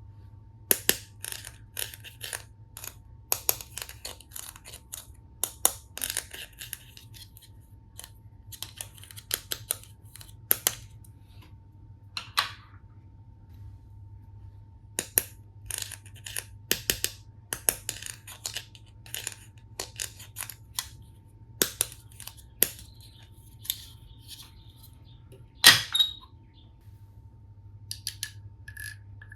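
Plastic toy tool-set pieces being handled: irregular sharp clicks, taps and small knocks, coming in clusters with short pauses. The loudest is a single knock near the end, followed by a quick run of light ticks.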